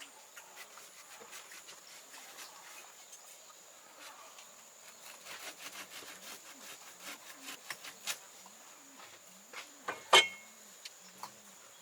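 A run of light clicks and knocks, coming thicker about five seconds in, with one sharp, loud knock near the end, over a steady high-pitched insect drone.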